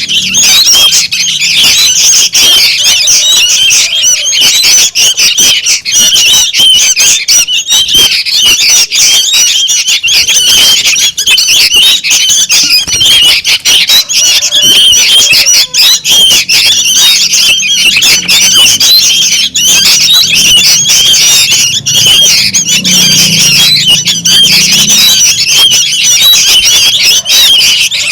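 Young sooty-headed bulbuls calling noisily: a loud, dense, unbroken chatter of high chirps from many birds at once.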